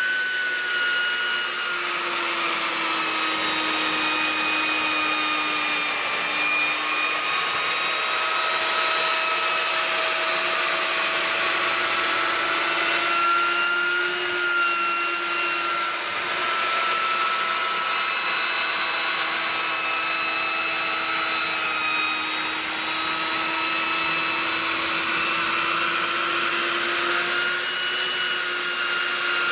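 A power tool surfacing kiln-dried black walnut rounds: a steady machine whine that wavers slowly up and down in pitch as it cuts, over a constant hiss.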